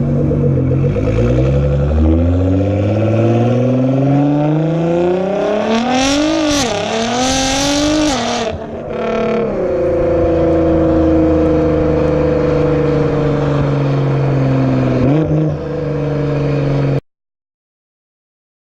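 Nissan GT-R's twin-turbo V6 through a straight-piped exhaust, pulling hard with the revs climbing steadily. It gives a burst of fluttering revs with loud hiss, drops back, then holds a steady, slowly falling drone before cutting off abruptly near the end.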